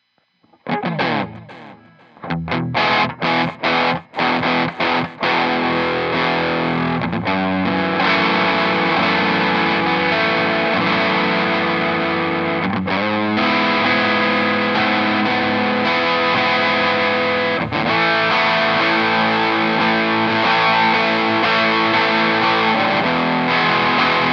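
Clifton Telecaster-style electric guitar with two humbucking pickups, played through distortion. A chord rings out about a second in, then a run of short, choppy chords, and from about five seconds in it settles into sustained distorted playing.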